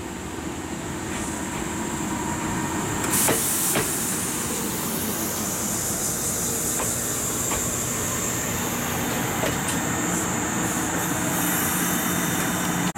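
Kintetsu electric multiple-unit train running past at close range, a steady rolling rumble of wheels on rails with a high-pitched ring over it. Two sharp clacks of wheels over rail joints come about three seconds in.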